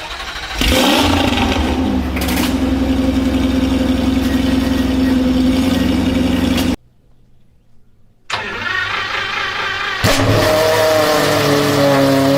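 Two sports-car engines cold-starting one after the other. The first catches with a sudden burst about half a second in and settles to a steady high idle. After a short break, a second engine starts and fires sharply near the end, then holds a steady high idle.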